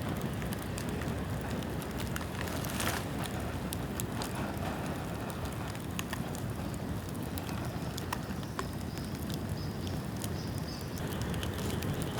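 Bamboo bonfire burning steadily, with a dense crackle of small pops and snaps over a low rushing noise and one louder crack about three seconds in.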